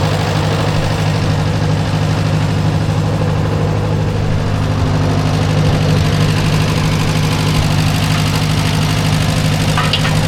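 Engine idling steadily at an even pitch.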